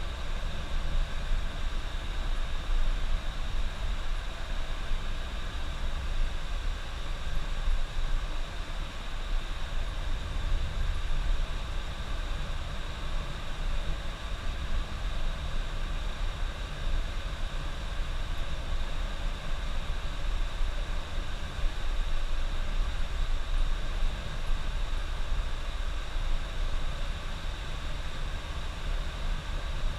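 Steady drone of a coach bus driving along the highway, heard from inside: low engine rumble with tyre and road noise, even throughout.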